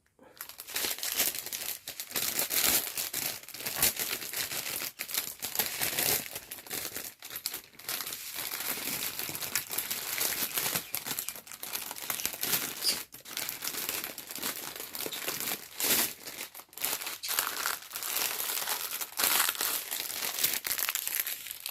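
Plastic wrapping crinkling and rustling without a break as it is handled, with many sharp crackles.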